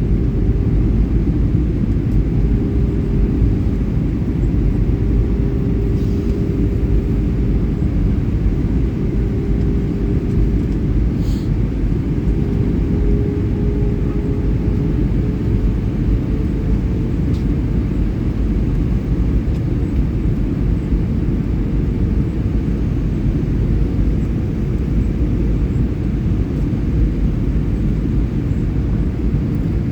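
Airliner jet engines running with a steady low rumble and a humming tone that rises slightly about halfway through.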